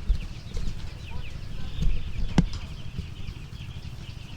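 A crowd of seven-day-old broiler chicks peeping continuously, many short falling chirps overlapping, over a low rumble. A single sharp click comes about two and a half seconds in.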